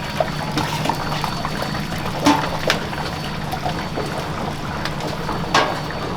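Kitchen noise: a steady hiss over a low hum, with scattered clinks and knocks of utensils, two of them louder about two and five and a half seconds in.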